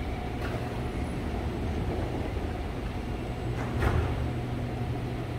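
C751B train standing at the platform with its equipment humming steadily. About four seconds in comes a thump as the train doors and platform screen doors slide shut, with a lighter click just after the start.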